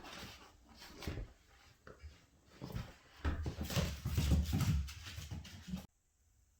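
Seven-week-old pit bull puppy whimpering and making play noises while it tugs at a sweater, with irregular rustling and scuffling; the sound cuts off suddenly near the end.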